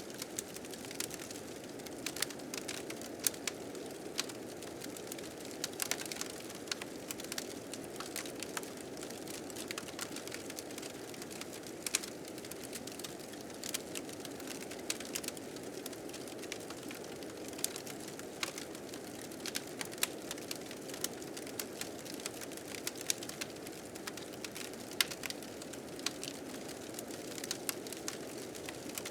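A wood fire crackling with frequent sharp pops, irregular and a few louder than the rest, over the steady rushing of blizzard wind.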